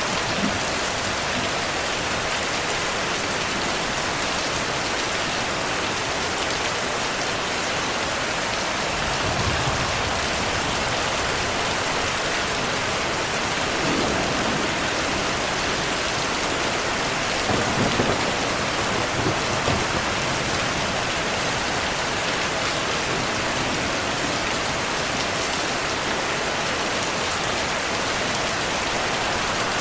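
Steady heavy rain falling, with low rumbles of distant thunder swelling up about a third of the way in, around the middle, and again a little past the middle.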